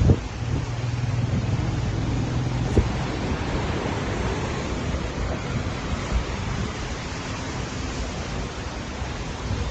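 Steady rushing noise of floodwater, with wind buffeting the microphone. A low hum runs for about the first three seconds, and there are two short knocks: one at the start and one nearly three seconds in.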